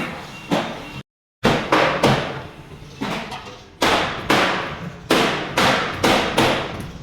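Hammer blows on steel, struck about twice a second with a ringing tail after each, with a pause of about a second near the middle.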